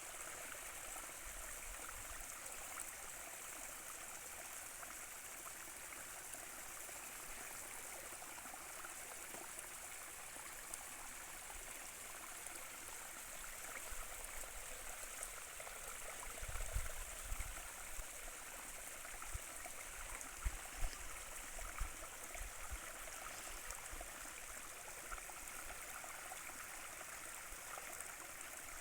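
Stream water rushing and trickling steadily. A few short, low thumps come in the middle of the stretch.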